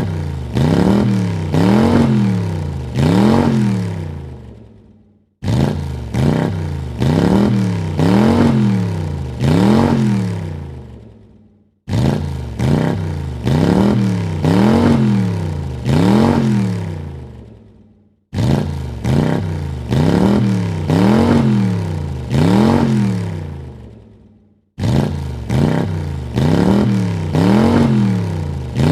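Car engine blipped four times in quick succession, each rev rising and falling in pitch, then dying away. The same burst repeats about every six and a half seconds, starting again with a sudden cut each time.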